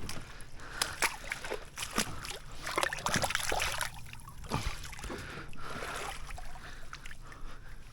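Water sloshing and splashing around a small boat, with scattered knocks and clatter at irregular moments.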